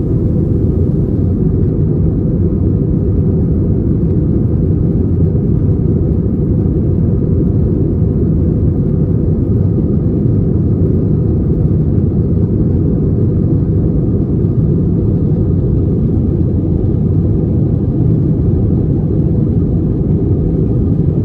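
Steady low rumble of an Airbus A320 in flight, engines and airflow heard from inside the passenger cabin.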